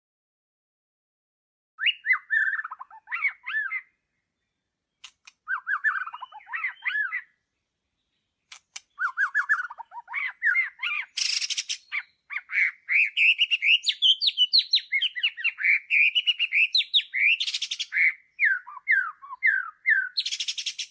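Songbird singing: two short phrases of quick chirping notes with silent gaps, then a long unbroken run of rapid, varied chirps and warbles through most of the second half, with a few harsh, rasping notes mixed in.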